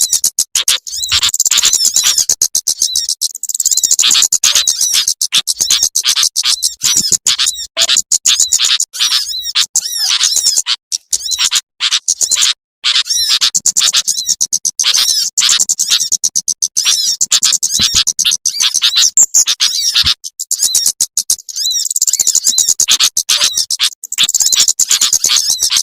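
Recorded small-bird calls played as a trapping lure: sunbirds and similar small birds in fast, high-pitched chips and twitters that repeat almost without pause. There are a couple of short gaps about halfway through.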